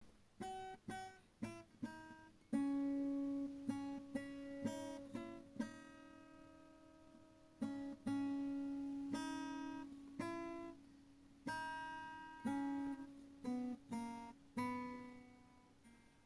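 Background music: an acoustic guitar picking single notes and chords, each note ringing and fading before the next.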